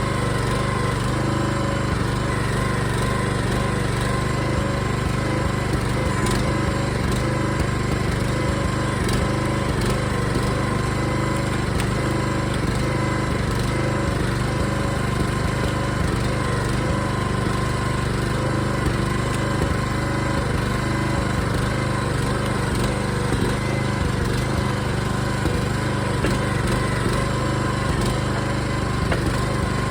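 Small single-cylinder gas engine of a Harbor Freight backhoe running steadily at a constant speed.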